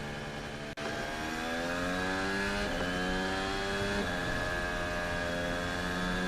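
Onboard sound of a Red Bull RB16B Formula 1 car's Honda 1.6-litre V6 turbo-hybrid engine pulling through the gears, its note climbing slowly in each gear and dropping at each upshift, three times, over a steady high whine. The sound cuts out for an instant about a second in.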